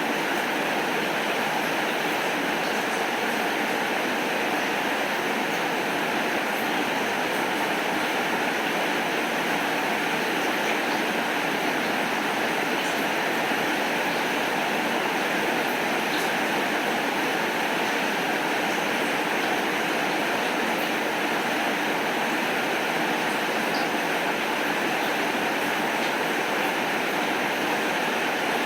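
Steady rainfall, an even hiss with a few faint scattered ticks.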